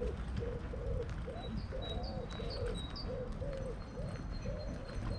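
Birdsong: a small songbird gives a few high up-slurred chirps, then a run of thin high notes. Under it is a steady series of low, rounded notes about three a second, over a low background rumble.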